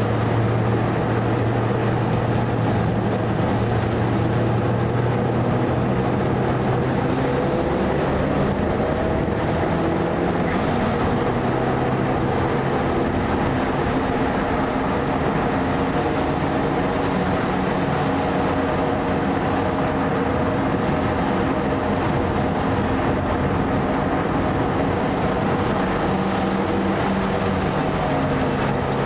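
Mitsubishi Lancer Evolution IV's turbocharged four-cylinder engine heard from inside the cabin at speed, running steadily with small rises and falls in pitch, over a continuous rush of road and wet-tyre noise.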